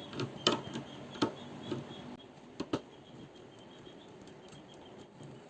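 A few small clicks and taps, about five in the first three seconds, from wiring parts being handled and connected.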